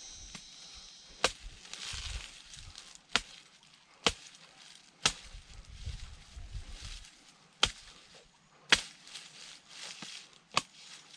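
A machete chopping into a fresh coconut to open it for its juice: seven sharp, separate chops at an uneven pace.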